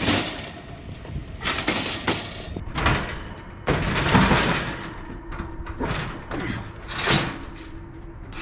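Irregular metal clanks and bangs with a longer scraping stretch about four seconds in, as a scrap kitchen stove is handled and its oven door worked off.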